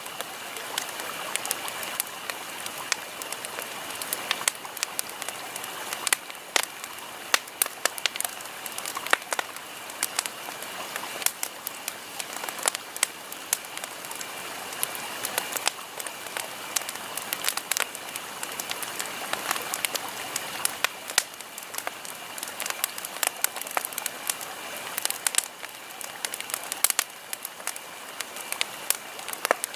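Campfire burning: wood crackling and popping with frequent sharp, irregular snaps over a steady hiss.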